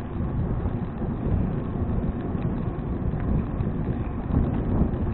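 Wind buffeting an action camera's microphone on a moving bicycle: a steady, low rumbling rush of noise.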